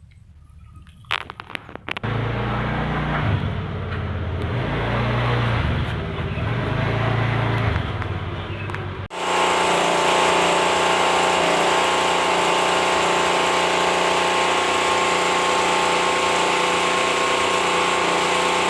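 A motor running steadily. Before an abrupt change about nine seconds in, a lower machine hum shifts up and down in pitch; after it, the motor runs at an even, unchanging pitch.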